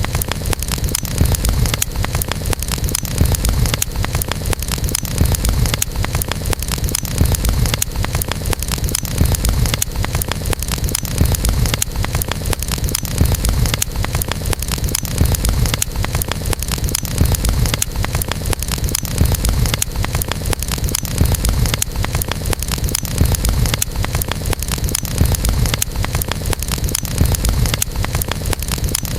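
Wood campfire burning, crackling and popping constantly over a steady low rumble.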